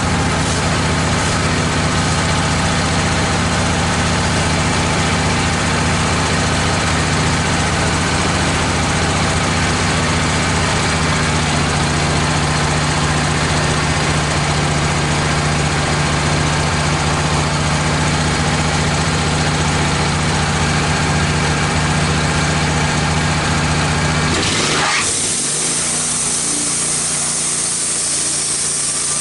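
Wood-Mizer LT15 sawmill's engine idling steadily. Near the end the sound changes suddenly to a high, hissing saw sound as the band blade runs into the red oak log.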